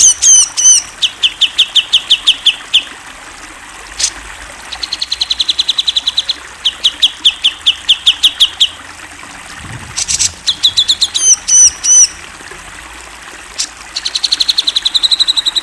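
Cucak jenggot (grey-cheeked bulbul) singing: loud phrases of rapid, evenly repeated clear notes, each run lasting about two seconds with short pauses between, broken near the start and again about ten seconds in by curling, higher looping notes.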